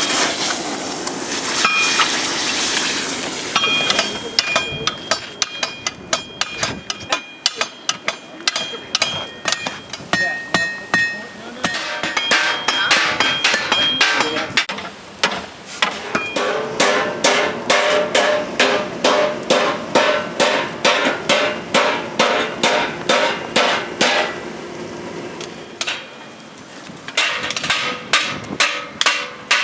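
Hammer blows on hot steel over an anvil in a steady forging rhythm, at about three blows a second through much of the stretch, with the anvil ringing at a high pitch between strikes. The blows pause briefly near the end, then start again.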